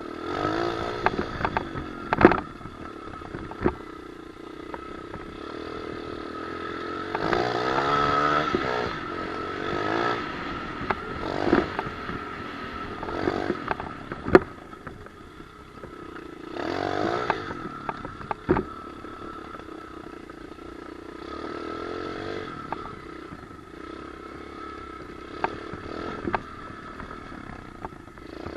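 Pit bike engine revving up and easing off again and again as it is ridden, with sharp knocks and rattles from the bike now and then.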